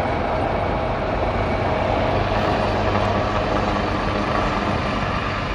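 Passenger helicopter's engine and rotor running steadily.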